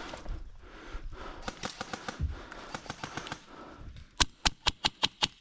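Airsoft replica firing a quick string of sharp shots, about four or five a second, starting about four seconds in. It is preceded by fainter, irregular clicks and taps.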